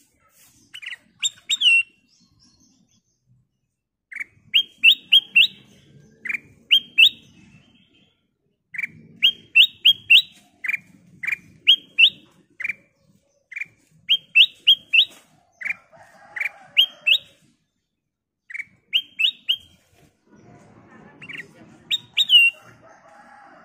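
Black-crested bulbul singing: quick phrases of short, sharp chirping notes, three to six at a time, repeated with brief pauses between them.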